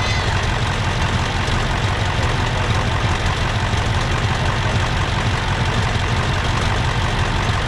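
Massey Ferguson 2805 tractor's diesel engine running steadily in neutral, on its first run after sitting for over two years.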